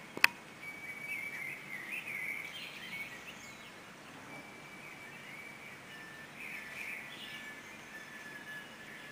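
Birds chirping and warbling over faint outdoor background noise, with one sharp click right at the start.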